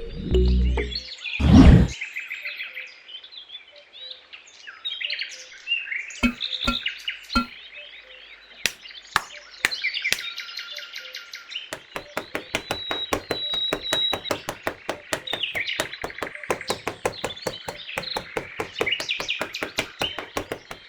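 Small birds chirping and twittering throughout, with a single loud thump about a second and a half in and three short knocks a few seconds later. From about halfway on, a fast run of light clicks or taps, several a second, goes on under the birdsong.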